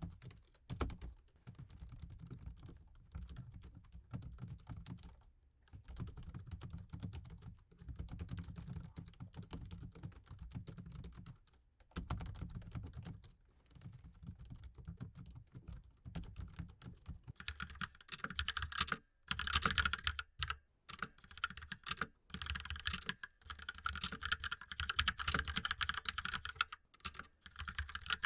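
Laptop keyboard being typed on continuously, a dense run of soft key clicks with brief pauses. About two-thirds of the way through the keystrokes turn brighter and louder.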